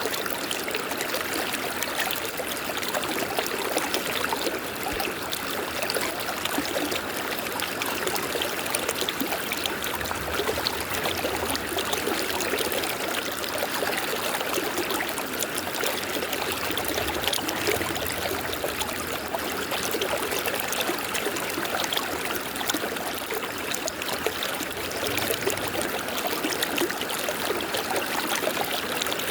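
River water flowing steadily: an even rushing of water with many small splashes, unchanging throughout.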